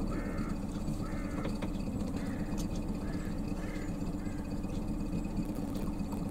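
A bird calling repeatedly, about once a second, the calls growing fainter after about four seconds, over the steady low hum of the cruiser's engine running under way.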